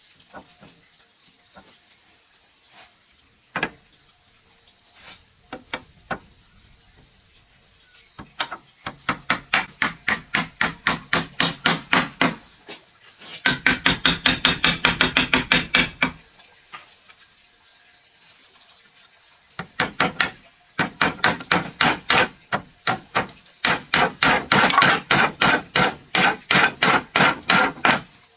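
Hammer striking wood in fast, even runs of blows, about four a second, in three bursts after a few scattered knocks. Crickets trill steadily underneath.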